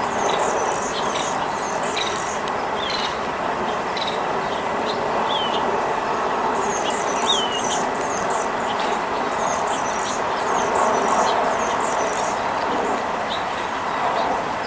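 Small songbirds chirping: quick runs of high thin notes in two spells, and scattered short falling chirps, over a steady rushing rumble.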